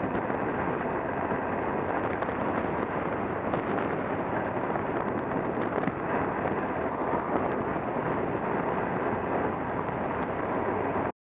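Wind rushing over the microphone of a moving motorcycle, a steady dense noise that cuts off suddenly near the end.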